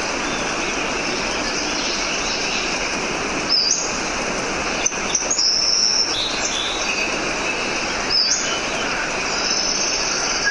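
A few short, high bird chirps, about three and a half, five and eight seconds in, over a steady rushing background noise, in a nature-sounds recording.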